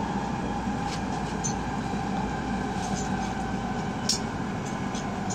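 Steady running noise inside the passenger car of an E7/W7-series Hokuriku Shinkansen train at speed: an even rumble with a low hum, broken by a few light ticks.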